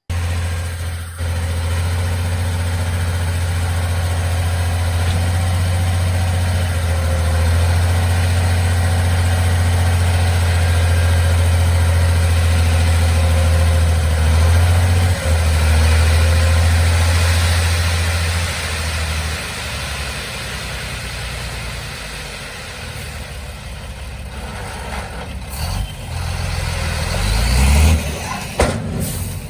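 Heavy diesel engine of a construction vehicle running with a steady low hum, getting somewhat quieter about two-thirds of the way through, then revving up in a rising pitch near the end.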